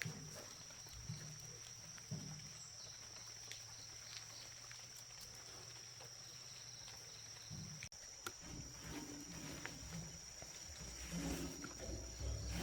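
Faint, short, low animal calls now and then, more of them near the end, over a steady high whine.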